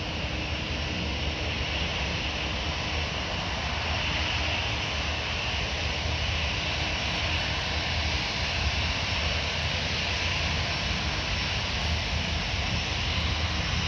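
Jet airliner engines running steadily at an airport, a hiss with a low hum underneath that grows slightly louder.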